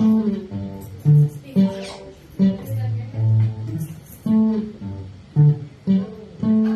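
Acoustic guitar played live, picking single notes with a low bass note and higher melody notes sounding one after another.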